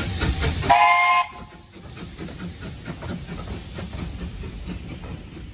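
Steam locomotive departing: a loud hiss of steam, then a short chime whistle blast about a second in, followed by a lower running rumble with faint regular exhaust beats.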